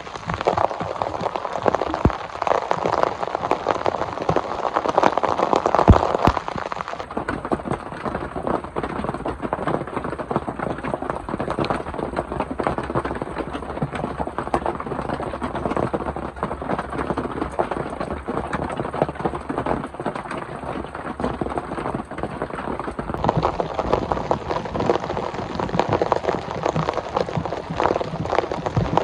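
Steady heavy rain falling, with many small drop impacts ticking through the hiss. The highest part of the hiss drops away about a quarter of the way in and returns near the end.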